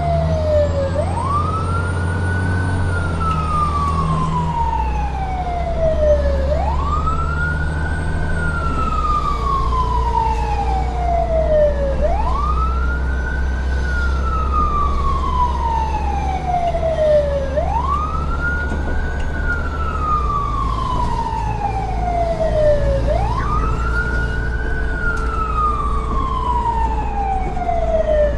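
Siren wailing in a slow, regular cycle: each wail rises quickly and then falls away slowly, repeating about every five and a half seconds, over a steady low rumble.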